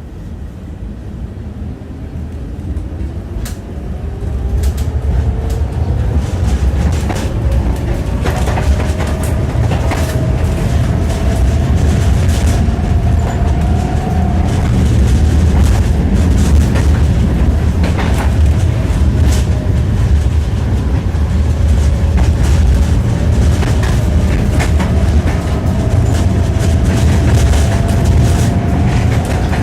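Tram running, heard from inside the car: the wheels clatter and click sharply over the rail joints above a steady rumble. A whine rises in pitch as the tram picks up speed through the first half, dips about halfway through and rises again.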